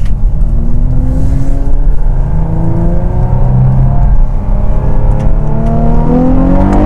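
Infiniti Q50 Red Sport's twin-turbo VR30 V6, heard from inside the cabin, pulling under acceleration: its note climbs steadily over a heavy low road and drivetrain rumble.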